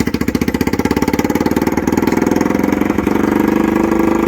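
Bajaj Pulsar NS200's single-cylinder engine running through a freshly fitted aftermarket Akrapovic exhaust with bend pipe. A loud, rapid, even exhaust pulse that slowly quickens and grows a little louder as the revs rise slightly.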